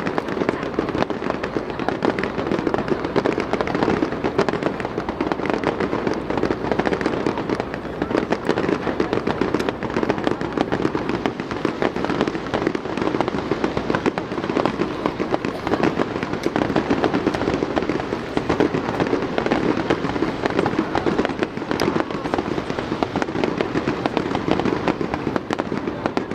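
Aerial fireworks going off in a dense, continuous barrage: many overlapping bursts and crackles with no pause between them.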